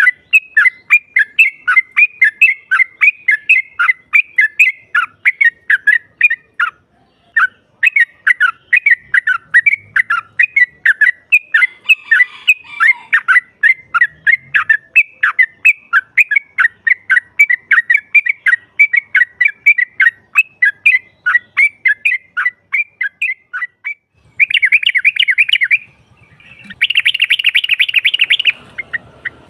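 Yellow-vented bulbul calls, a female's call used as a lure for males: a fast, even run of sharp chirps, about three a second, with a short break about seven seconds in. It ends in two dense chattering bursts near the end.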